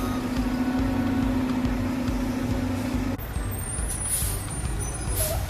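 Automated garbage truck running, its diesel engine rumbling under a steady droning tone that cuts off about three seconds in. Two short air hisses follow near the end.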